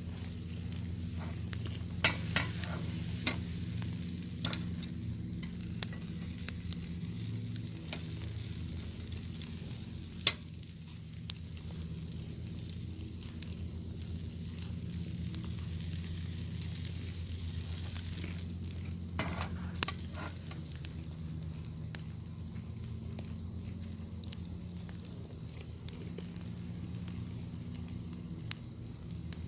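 Bacon sizzling in a pan over a wood fire: a steady frying hiss with a low rumble beneath, broken by occasional sharp pops, a few in the first seconds, one about ten seconds in and a cluster about twenty seconds in.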